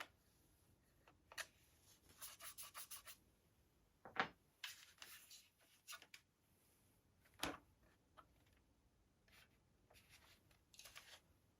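Faint handling noises from airsoft gun parts being unpacked and fitted together: rubbing and scraping, a quick run of about eight small clicks about two seconds in, and two sharper knocks, one about four seconds in and one past seven seconds.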